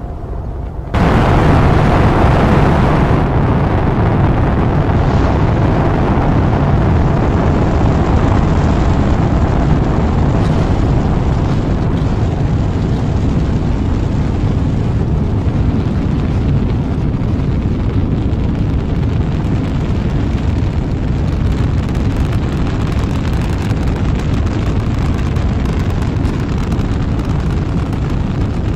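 Rocket engines at launch: a loud, deep rumble that cuts in suddenly about a second in and carries on steadily, easing slightly toward the end.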